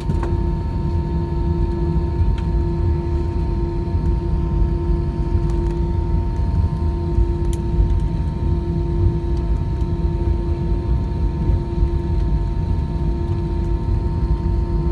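Airbus A320 cabin noise as the airliner taxis after landing: a steady low rumble with a constant hum over it.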